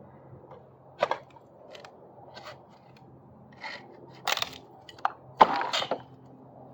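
Scattered sharp knocks and cracks of wooden deck framing being worked apart with hand tools, at uneven intervals, the loudest near the end.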